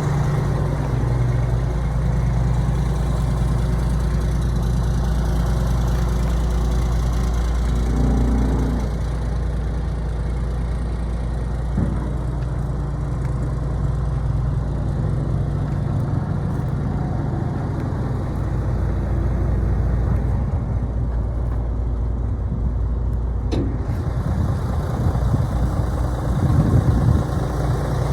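Mack Granite dump truck's diesel engine idling steadily, with a couple of brief sharp clicks partway through.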